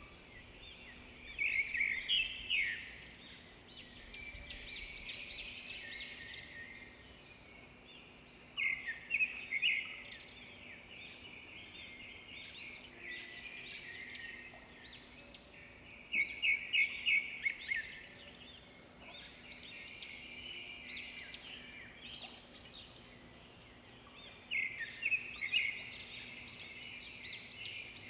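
Birds singing and chirping, with four louder bursts of rapid, high song spaced several seconds apart and quieter twittering between them.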